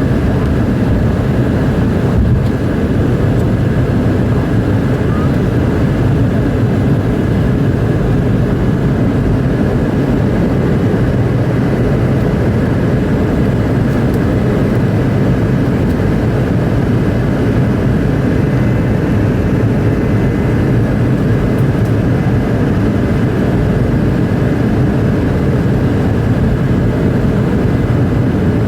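Steady, loud cabin noise of a Boeing 717-200 airliner under takeoff power, its rear-mounted Rolls-Royce BR715 turbofans and rushing air heard from inside the cabin, with no change in pitch or level.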